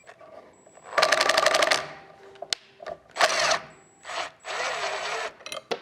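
Cordless drill turning through a DeWalt right-angle attachment, run in three short bursts. The first burst has a fast, even rattle, and a few sharp clicks fall between the bursts.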